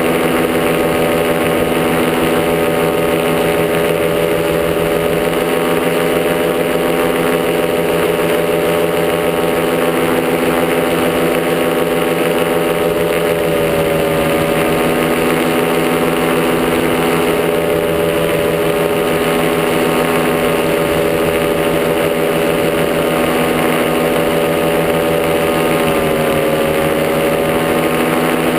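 Top80 paramotor's two-stroke engine and propeller running steadily at cruise throttle in flight, the pitch easing down briefly about halfway through and again near the end.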